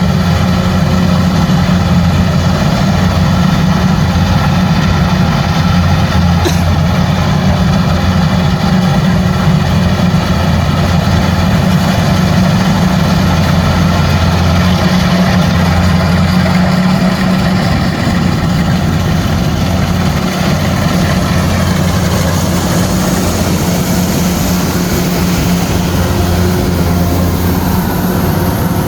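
Combine harvester running steadily under a constant engine note, with a single brief click about six and a half seconds in.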